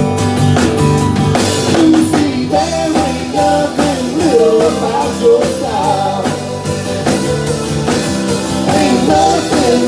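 Country-rock band playing an instrumental break: a lead line that bends in pitch over drums, bass and guitar.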